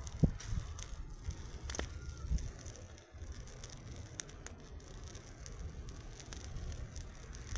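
Campfire crackling, with scattered sharp pops over a low rumble.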